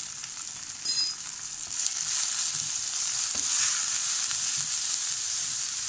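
Chopped onions and spice powders sizzling in hot oil in a non-stick kadai while a wooden spatula stirs and scrapes them, with soft knocks of the spatula against the pan. There is a brief sharp sound about a second in, and the sizzle is louder after it.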